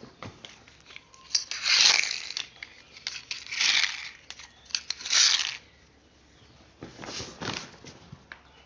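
Handling noise: about four short bursts of crinkling, rustling noise, with small clicks between them.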